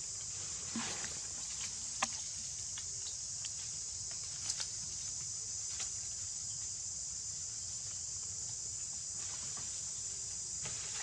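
Steady high-pitched drone of a forest insect chorus, with a few scattered sharp clicks or snaps, the sharpest about two seconds in.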